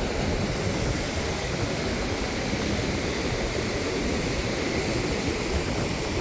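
Steady rushing noise of wind and surf on an open beach, with no distinct events.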